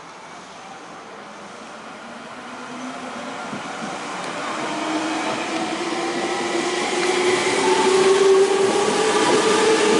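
Senboku Rapid Railway electric commuter train arriving at the station platform. Its running noise grows steadily louder as it draws alongside, and a whine that rises slightly in pitch comes in over the second half.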